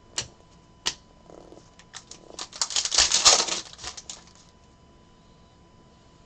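Trading cards being handled and flicked through in the hands: a couple of single clicks, then a quick run of card clicks and rustling from about two to four seconds in.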